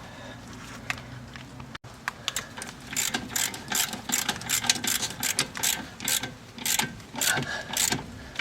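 Hand ratchet wrench clicking in repeated short bursts, about two a second, from about three seconds in, as a bolt is turned.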